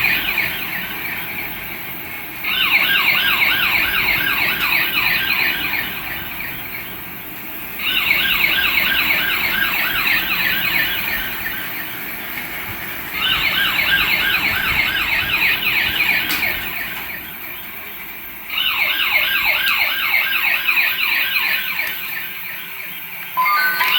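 Battery toy police car's electronic siren sound effect: a fast warbling yelp that comes back loud about every five seconds and fades in between. Near the end a different electronic beeping tone starts.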